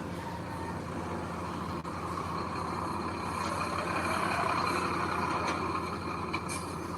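Heavy diesel machinery engine running steadily, growing a little louder about three to five seconds in.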